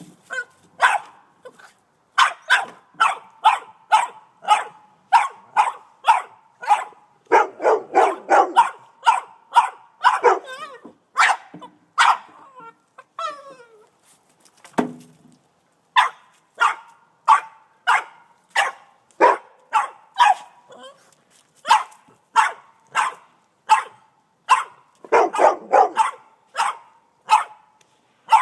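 Boston Terrier barking over and over in short, sharp barks, roughly two a second, with a brief pause about halfway through.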